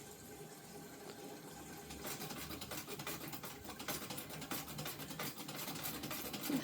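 Treadle sewing machine stitching, a fast run of light mechanical clicks that picks up about two seconds in.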